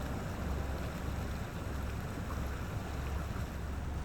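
Steady rush of running water from a mountain stream.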